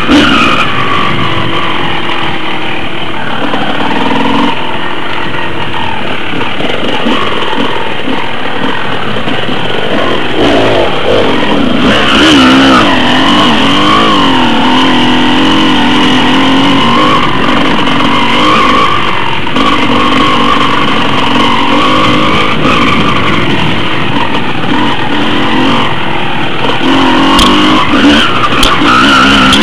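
Off-road motorcycle engine running as the bike is ridden, its pitch rising and falling with the throttle, loud throughout. A few sharp knocks come near the end.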